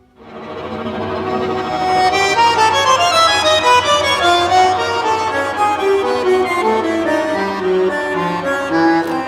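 Bandoneon playing a tango nuevo melodic line, swelling in from quiet at the start into a steady flow of notes changing several times a second.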